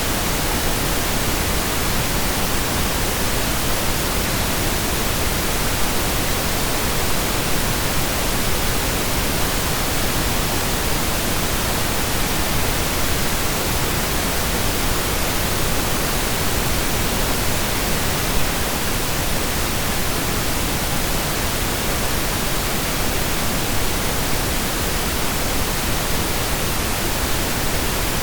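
Steady, even pink noise from digital synthesis: a constant hiss spread evenly across the whole range, with no changes or events.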